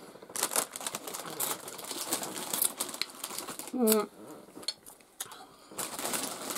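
Close-miked eating: chewing and mouth smacks of taco gratin, with small clicks of forks against plates. A short hummed 'mm' comes about four seconds in.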